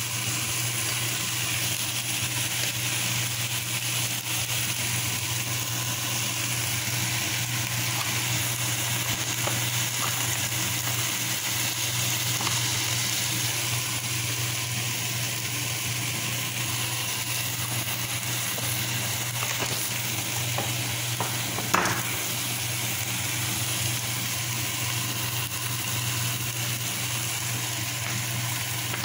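Chicken pieces and onions sizzling steadily in oil in a non-stick pot, over a low steady hum. A single sharp knock sounds about 22 seconds in.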